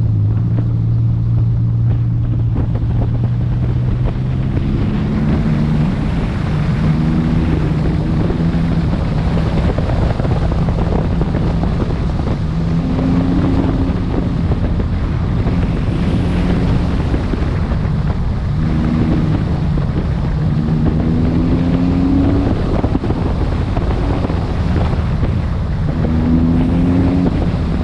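A car engine running under load with heavy wind noise. Its pitch climbs slowly, drops and climbs again several times, as when a car accelerates through its gears.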